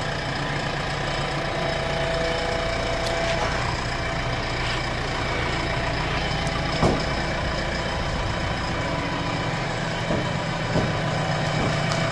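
JCB backhoe loader's diesel engine idling steadily, with a few short sharp knocks in the second half.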